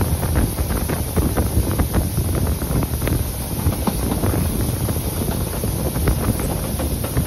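Wind buffeting a microphone held out of the window of a moving steam-hauled train, over the train's steady running rumble with irregular clicks and knocks.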